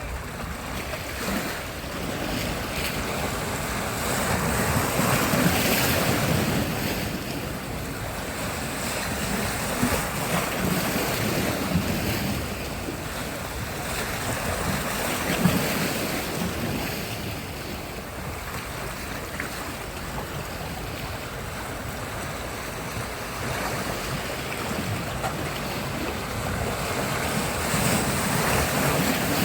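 Sea surf: waves breaking and washing up the shore, the rush swelling and fading every several seconds, with wind buffeting the microphone.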